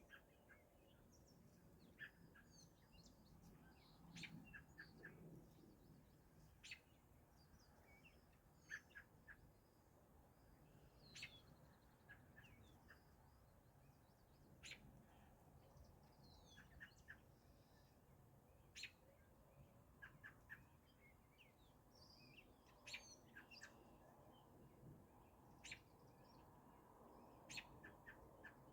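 Several songbirds chirping and calling, quietly, in short scattered notes.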